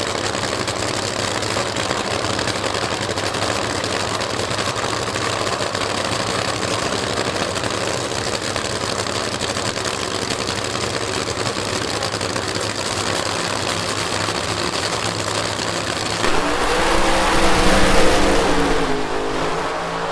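Jet drag-racing car's turbine engine running with a steady roar and whine, then about 16 s in a louder rush with a falling pitch as a car powers past.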